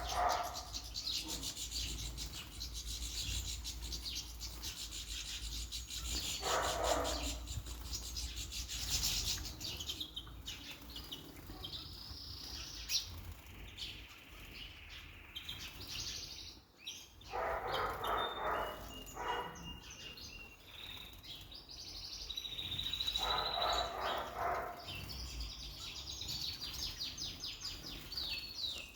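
Small cage birds bathing: a rapid patter of splashing and wing-fluttering in water, then chirps and short whistled song phrases mixed with brief flurries of splashing.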